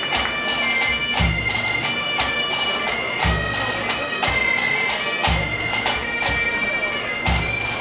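Pipe band playing: bagpipes carrying a melody over their drones, with drums keeping a beat that has a low pulse about every two seconds.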